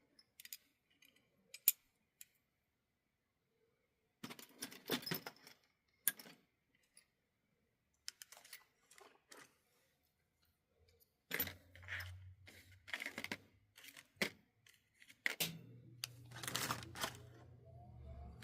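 Small clicks, taps and metallic rattles of small parts being handled while an HO-scale model locomotive is put back together, in scattered clusters. A low steady hum comes in briefly about two-thirds through, then again near the end, and keeps going.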